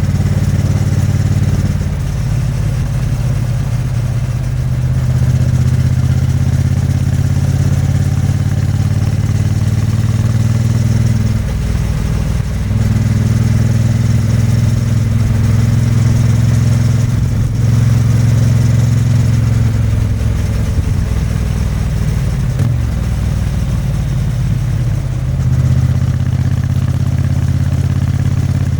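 Exhaust of a 2022 Triumph Bonneville T100's 900 cc vertical (parallel) twin under way, running steadily at a loud level. The engine note falls away briefly twice, about a third of the way in and again a little after two-thirds, before picking up again.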